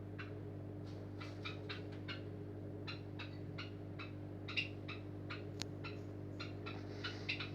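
Bosch Maxx 5 washing machine running: a steady hum with irregular light ticks and clicks, a sharper click about four and a half seconds in.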